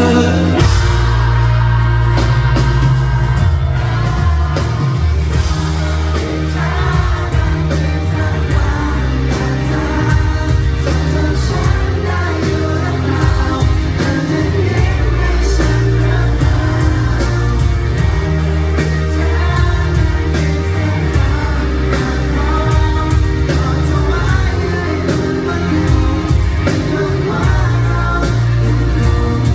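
Live band playing a pop-rock song with lead singing over heavy bass and drums.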